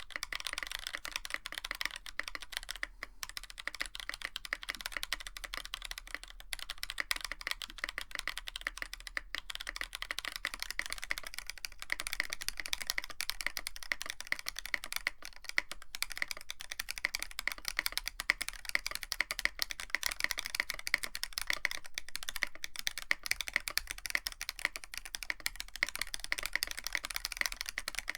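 Continuous fast typing on a Tofu65 mechanical keyboard with a brass plate and PBT keycaps, a dense stream of keystroke clacks. It is first fitted with stock Boba U4T tactile switches, then about a third of the way in with Azure Dragon switches.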